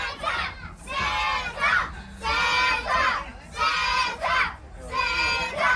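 A crowd of passengers, children among them, shouting "Santa!" together in a rhythmic chant, about five shouts a little over a second apart.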